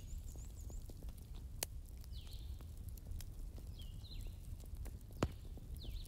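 Birds chirping, short calls with a quick downward glide every couple of seconds, over a steady low rumble. Two sharp clicks, about a second and a half in and about five seconds in.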